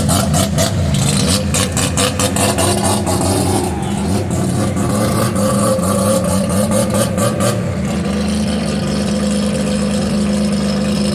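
A car engine running loudly with a steady low drone, with rapid crackling over the first seven seconds or so.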